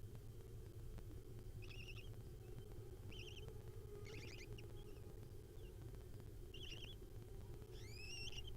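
Young barn owl nestlings giving short, faint high chirps a few times, one a quick trill and the last a rising call near the end, over a steady low electrical hum.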